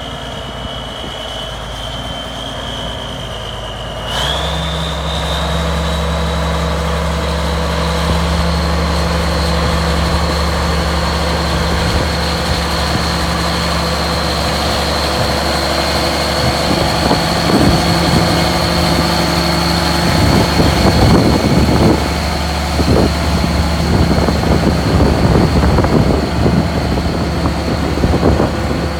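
Steiger Panther ST310 four-wheel-drive tractor's diesel engine running steadily, with a high whine over it. About four seconds in the engine speeds up: it gets louder and the whine rises in pitch and holds there. In the second half it is broken by irregular gusts of wind noise on the microphone.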